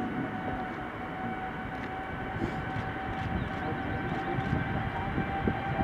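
Jet engines of a Boeing 747-8 freighter at takeoff power: a steady whine that creeps slightly up in pitch over a low rumble, the rumble building toward the end.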